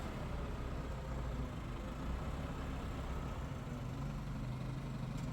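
An engine running steadily at low speed, a continuous low hum.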